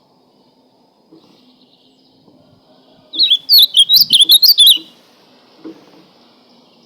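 Ultramarine grosbeak (azulão) singing one short, loud, warbled song phrase of quick notes, starting about three seconds in and lasting under two seconds.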